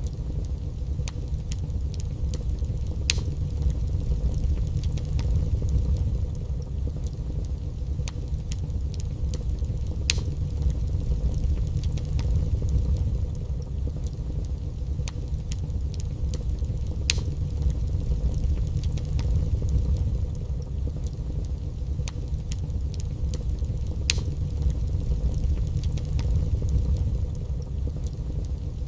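Wood fire burning in a fireplace: a steady low rumble of the flames with scattered sharp crackles and a few louder pops several seconds apart.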